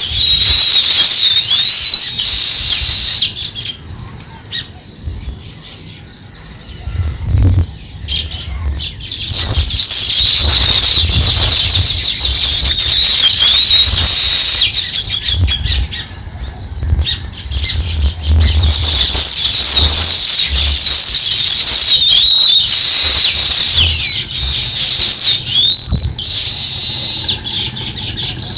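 Several house sparrows chirping in a dense, continuous chorus of short, repeated high chirps. The chorus drops to a quieter stretch a few seconds in, then comes back at full strength.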